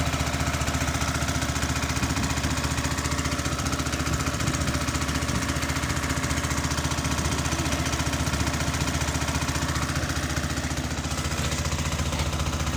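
A boat's engine running steadily with a fast, even chugging.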